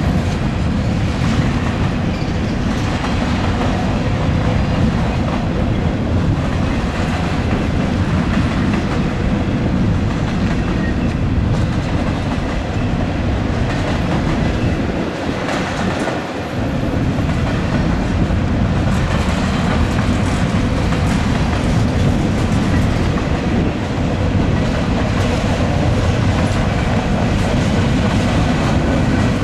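A long freight train's cars rolling past with a steady, heavy rumble and wheels clicking over the rails, with faint steady ringing tones from the wheels.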